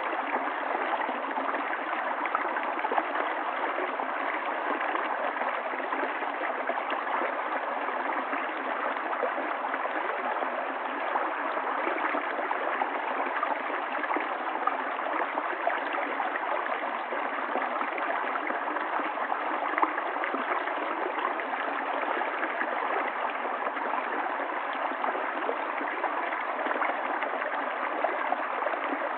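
River water flowing steadily over stones, a continuous rush of water with small gurgles and splashes.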